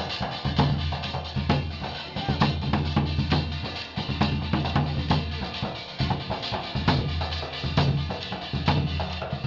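Drum-led live music: quick, steady drum strokes several times a second over a sustained low droning tone that briefly drops out a couple of times.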